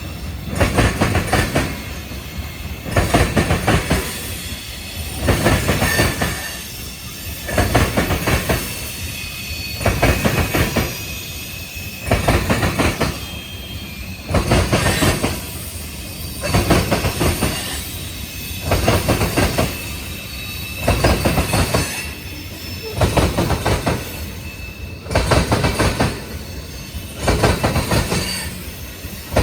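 A freight train rolling past, its wheels clattering in an even rhythm, a loud burst every one and a half to two seconds as each car's wheels go by, with some faint wheel squeal.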